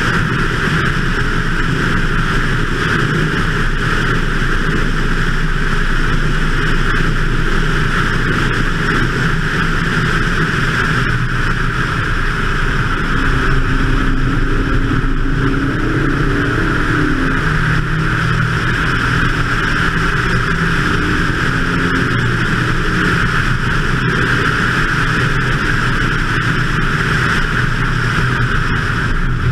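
BMW 2002 race car's engine running hard at track speed, heard from a hood-mounted camera with a strong, steady rushing of air over it; the engine note shifts in pitch through a corner about halfway.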